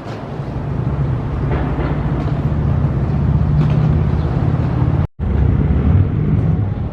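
Vehicles running close by: a low, steady motor hum that grows louder over the first few seconds. About five seconds in the sound drops out for a split second and comes straight back.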